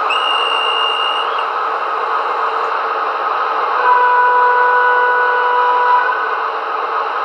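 Märklin HO model of the VT 11.5 diesel train running with its sound decoder's diesel engine noise. A short high whistle tone sounds in the first second, and a two-note horn is held for about two seconds starting about four seconds in.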